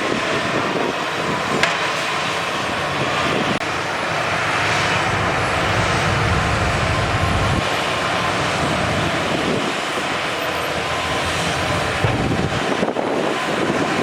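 Heavy diesel earthmoving machinery running steadily under load, with a few sharp knocks.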